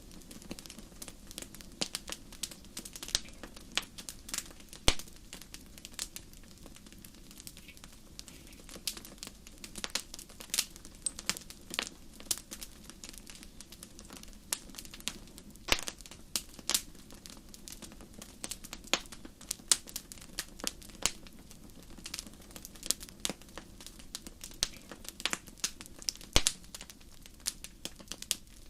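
Wood fire in a fireplace crackling: irregular sharp pops and snaps, often several a second, over a steady low rumble of the flames.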